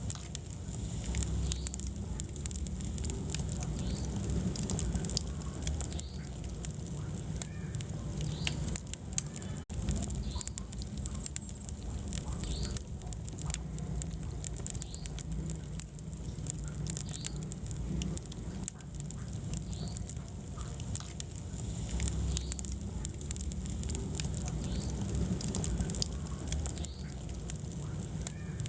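Wood fire burning in a fireplace, crackling with frequent small snaps and pops over a low rumble of flame.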